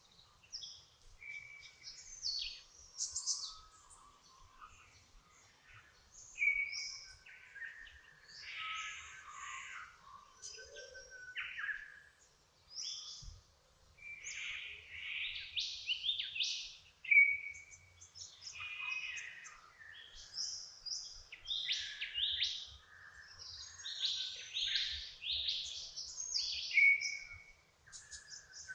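Dawn chorus: several birds singing and chirping at once, a steady stream of overlapping short whistles, trills and chirps.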